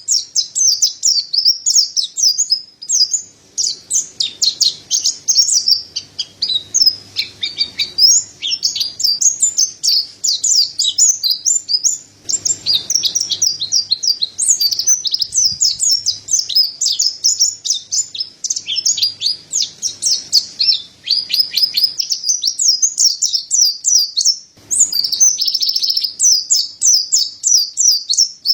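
Mountain white-eye (pleci dada putih) singing vigorously: a fast, almost unbroken stream of high twittering chirps and trills.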